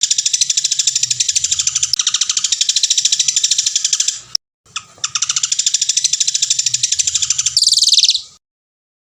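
Songbird singing a long, rapid, high-pitched trill of many even notes a second, in two runs of about four seconds with a short break between them; the second run turns louder and higher just before it stops abruptly.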